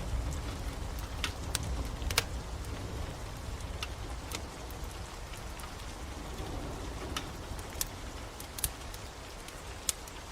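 Steady rain with a low rumble under it, and sharp, irregular crackles and pops from a wood fire, about eight in ten seconds.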